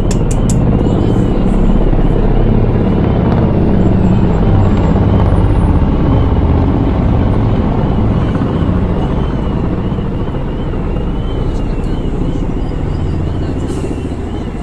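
Military helicopters flying overhead: a loud, steady, low rotor rumble that swells toward the middle and eases a little near the end.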